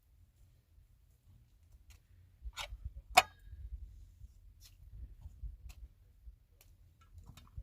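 Scattered sharp clicks and knocks over a low rumble, the two loudest coming about half a second apart a little before the middle.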